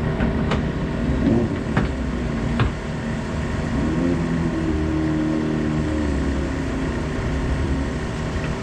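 Motorcycle engine running steadily, with a few sharp clicks or knocks in the first three seconds. A second engine tone rises slightly and holds from about the middle of the stretch.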